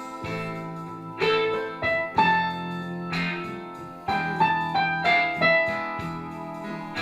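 Donner DEP-20 digital piano playing in its piano voice: a slow passage of struck chords and melody notes, each ringing on and fading.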